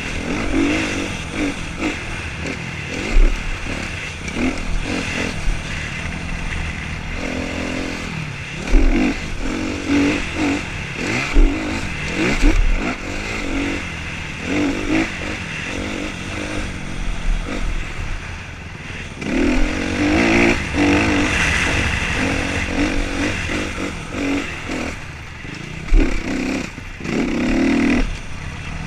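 Motocross bikes racing, their engines revving up and down as they accelerate and shift, with occasional low thumps.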